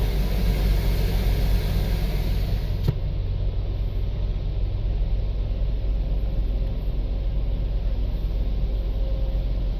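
A car running slowly, heard as a steady low rumble from inside the cabin, with one sharp click about three seconds in.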